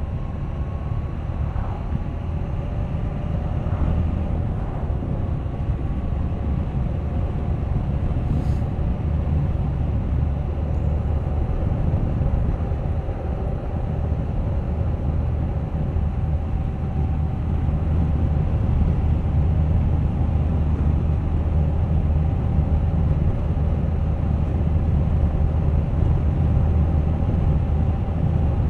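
Suzuki GSX1250FA motorcycle's inline-four engine running at a steady cruise, its note creeping slowly higher, under a heavy low rumble of wind. One brief tick about eight seconds in.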